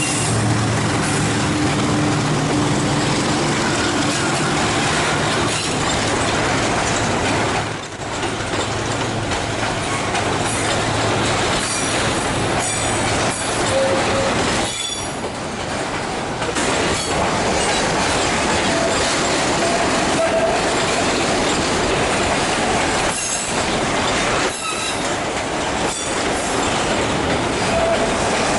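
Freight train rolling past: wagons clattering over the rails in a steady rumble, with short wheel squeals. A low diesel locomotive hum is heard at first and then fades.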